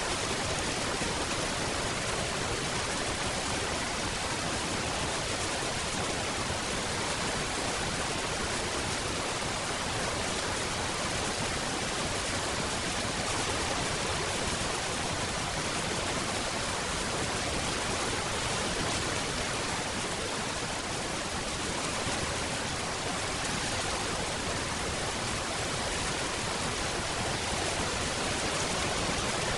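Steady rain falling: a dense, even hiss of drops with no single drops or thunder standing out.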